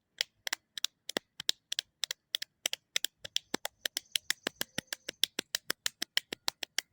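A rapid, fairly regular series of sharp clicks, about five or six a second.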